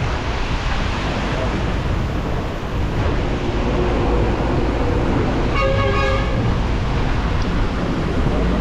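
Wind buffeting the microphone on a moving motorcycle, a steady rushing noise, with a vehicle horn honking once for under a second about two-thirds of the way through.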